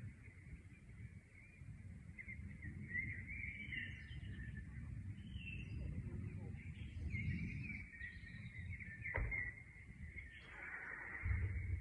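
Small birds chirping and twittering over a steady low rumble, with one sharp click about nine seconds in.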